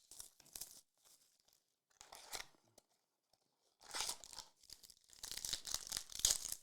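Trading card packaging being torn open: a few short rips, then dense, continuous crinkling of wrapper from about four seconds in.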